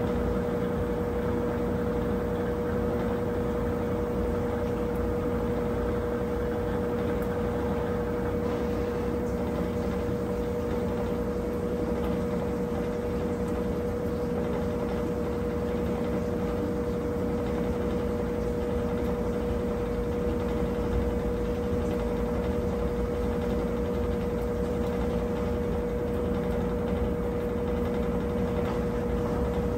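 Brastemp 17 kg top-load washing machine running late in its wash cycle: a steady motor hum with a constant whine and a low rumble underneath.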